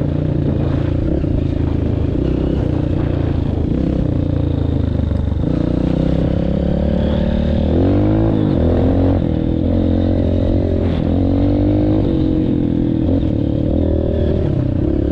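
Honda CRF230F dirt bike's single-cylinder four-stroke engine running under load on a muddy trail, its revs rising and falling with the throttle several times, most around the middle, over some clatter.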